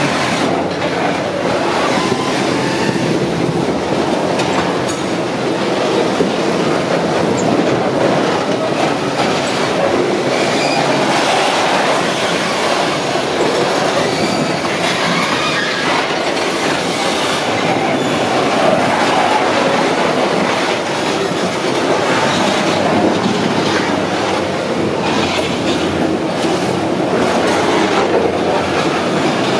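Freight train of covered hopper and box cars rolling past close by: the steady loud rumble and rattle of steel wheels on the rails, with clicks as the wheels cross rail joints and now and then a brief, faint wheel squeal.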